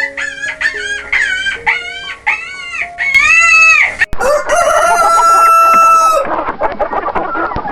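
Chickens calling: a quick run of short rising-and-falling calls and one longer call, then a rooster crowing for about two seconds, followed by clucking.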